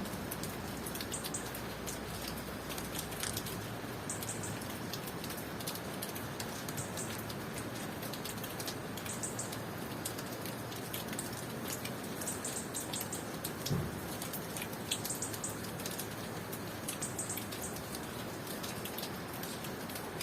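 Steady tropical rain falling, with many individual drops ticking close by. Crickets chirp in short high bursts every few seconds over the rain. There is a single low thump about fourteen seconds in.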